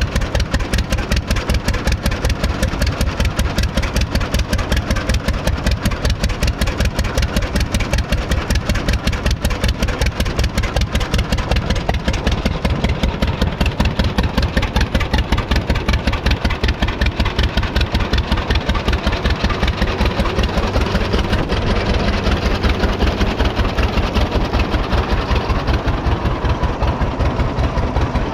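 1926 John Deere Model D 'Spoker' two-cylinder 7.6-litre all-fuel tractor engine running steadily, its exhaust giving an even, rapid beat of pulses.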